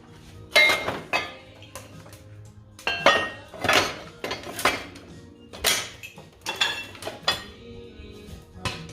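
Metal clinking and knocking: about nine sharp, irregular strikes with a bright ringing tail, over background music.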